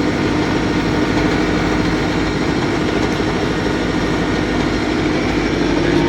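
A vehicle engine running steadily, with a constant low drone.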